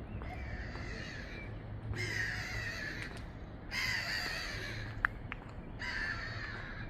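A crow cawing: four harsh calls, each about a second long, the first one fainter.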